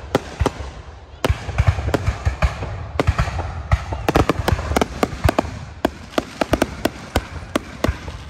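Aerial firework shells bursting in a rapid, irregular series of sharp bangs and crackles. The barrage grows louder just over a second in and is densest about four to five seconds in.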